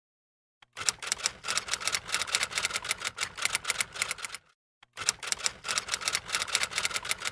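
Typewriter sound effect: rapid key clatter that starts just under a second in, stops briefly about four and a half seconds in, then resumes.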